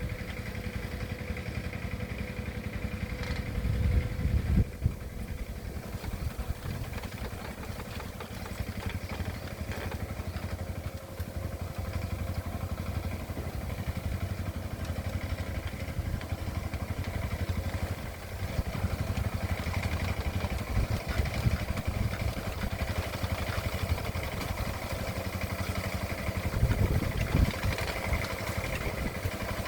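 Engine of a paddy-ploughing machine running steadily with a mechanical clatter, briefly louder and lower about four seconds in and again near the end.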